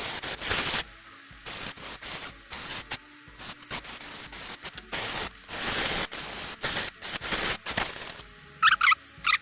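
Repeated hissing bursts, a fraction of a second to about a second each, mixed with short scraping and clicking strokes, as caked oil and sawdust are cleaned off an old chainsaw. A few high squeaks slide up and down in pitch near the end.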